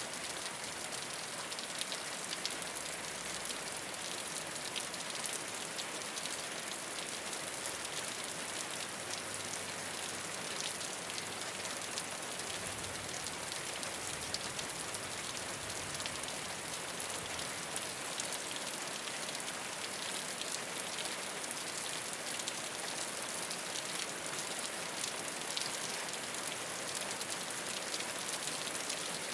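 Steady rain falling on a rooftop, a dense even patter of many small drop impacts with no let-up.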